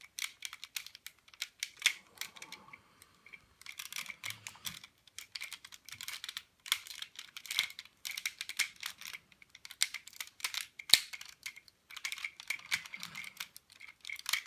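Plastic parts of a Transformers Optimus Prime toy figure being handled and clicked together: a steady stream of small irregular plastic clicks and taps, with one sharper snap about eleven seconds in.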